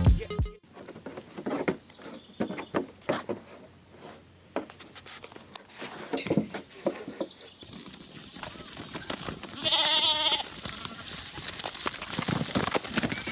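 Scattered knocks and thuds, then a single bleat about a second long from a goat-like or sheep-like farm animal, roughly three-quarters of the way through.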